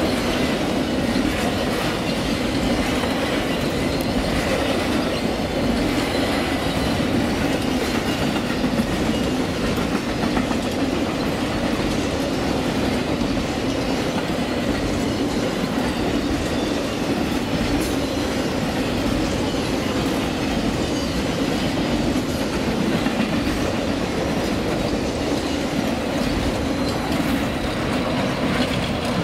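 Amtrak Auto Train autorack cars rolling past close by: a steady, loud rumble with the clickety-clack of wheels over rail joints.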